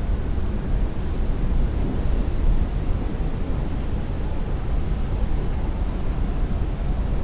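Heavy rain beating on a window in strong wind: a steady, dense rush with a deep rumble underneath.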